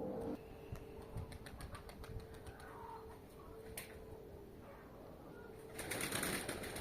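Domestic pigeons' wings clapping in a run of sharp claps, then a louder rush of wingbeats near the end as birds fly close by.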